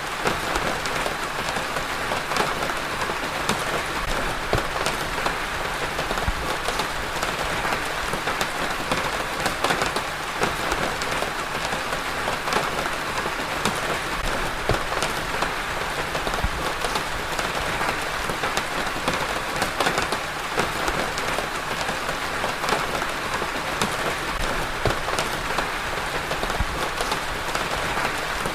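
Steady rain falling, a dense patter of drops on a hard surface.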